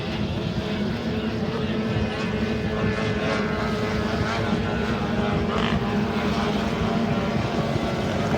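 Several racing jet ski engines running steadily, heard as an unbroken drone with overlapping engine tones.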